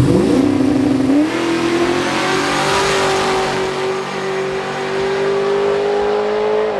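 A racing car's engine revs up sharply, then holds high revs at full throttle, its pitch climbing slowly as the car pulls.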